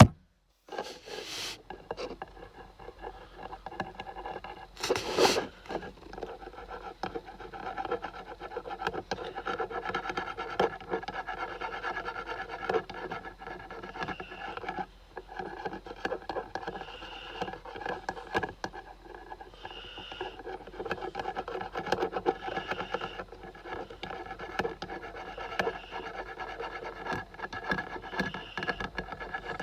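A marker rubbing and scratching back and forth over a small logo badge as the letters are coloured in, a steady scratchy scrubbing, with one louder knock about five seconds in.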